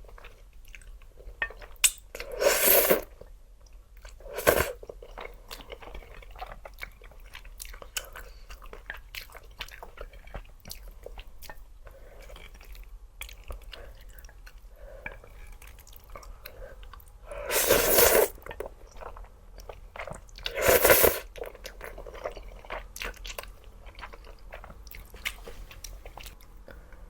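Close-miked eating of crispy fried chicken: four loud crunching bites, about three, four and a half, eighteen and twenty-one seconds in, with quieter, irregular chewing between them.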